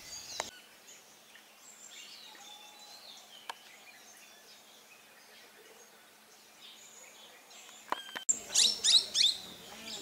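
Wild birds calling: faint, scattered chirps, then loud, rapid chirping calls about eight seconds in.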